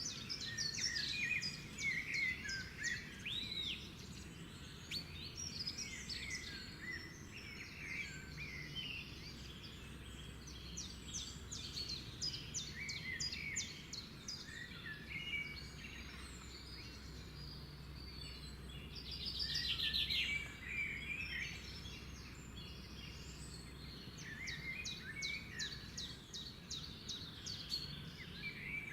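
Birdsong: several birds chirping and singing quick trills over a low steady background noise, with a louder, fast pulsing trill about two-thirds of the way through.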